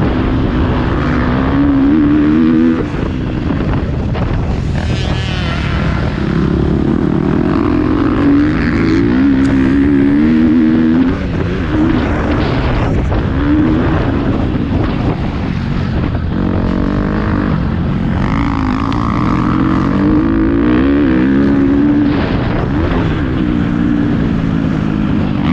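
Motocross dirt bike engine revving hard, its pitch climbing and dropping again and again as the rider accelerates, shifts and backs off around the track.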